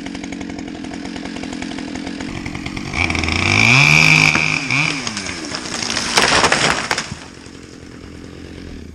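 Chainsaw cutting during tree felling. It runs steadily, is revved hard and rises in pitch about three seconds in, gives a loud crackling burst around six seconds in, and drops back to idle about seven seconds in.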